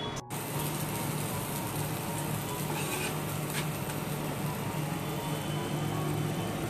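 Chicken pieces in a non-stick pan sizzling and bubbling in their own juices and oil, a steady hiss with a steady low hum beneath it. The sound breaks off briefly just after the start, then carries on evenly.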